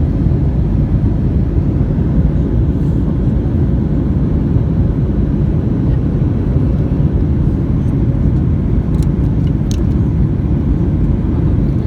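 Steady low rumble of a Boeing 737-800 airliner's engines and airflow during its landing approach, unchanging throughout, with a few faint ticks about nine to ten seconds in.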